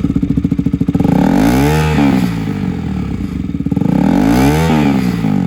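2023 KTM Duke 200's single-cylinder engine idling and blipped twice through its exhaust: the pitch rises and falls about a second and a half in, and again about four seconds in.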